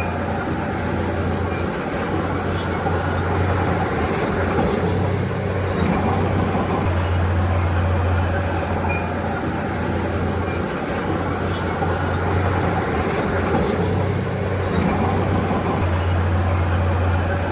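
Bulldozer's diesel engine running steadily, its low drone easing off and coming back a few times, with faint light clinks scattered throughout.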